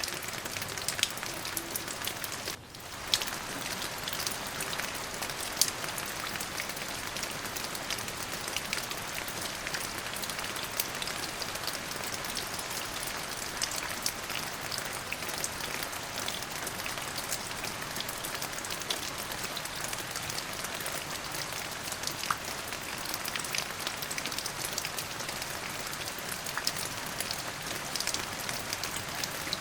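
Steady rain falling on a surface, an even hiss dotted with many sharp individual drop hits. The sound briefly drops away about two and a half seconds in, then resumes.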